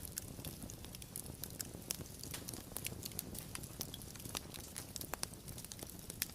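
Wood fire crackling: irregular sharp pops and snaps over a steady low rumble of flame.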